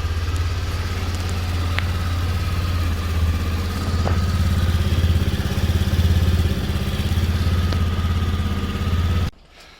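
Honda SCR110 scooter's single-cylinder four-stroke engine idling steadily, then cutting off abruptly about nine seconds in.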